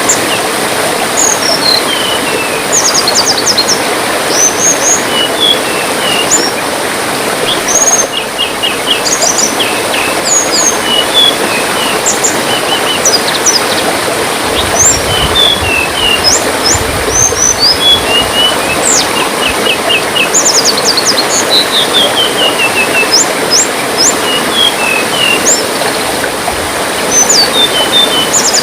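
Small songbirds, the tledekan of the title, give many short high chirps, quick sweeping calls and fast trills. Under them runs a steady sound of babbling, trickling water.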